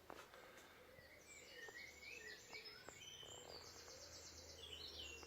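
Faint dawn chorus: several birds singing, with varied chirps and warbled phrases from about a second in and a fast run of repeated high notes in the second half.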